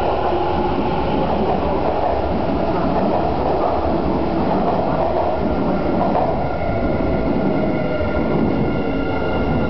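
Hanshin commuter train accelerating out of an underground station, its cars rumbling and clattering past close by. About six and a half seconds in, the rumble eases slightly and several steady high whining tones come in.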